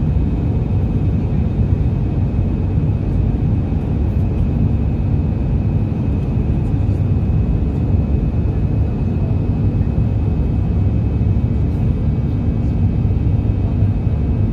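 Steady low rumble of an Airbus A319-112's CFM56 jet engines heard inside the passenger cabin, with a faint high steady whine above it.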